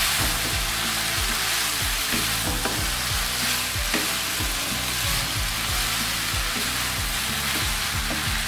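Vermicelli with potatoes, peas and spices sizzling in a non-stick frying pan while it is stirred and tossed with a wooden spatula, with soft knocks of the spatula about every half second.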